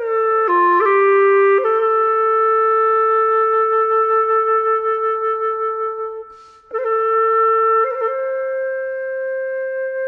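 Music: a solo wind instrument playing a slow melody of long held notes, with a short break a little past halfway before the melody goes on.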